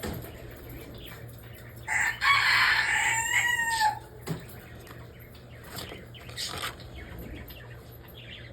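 A rooster crowing once, a loud call of about two seconds starting about two seconds in, harsh at first and ending in a bending drawn-out note.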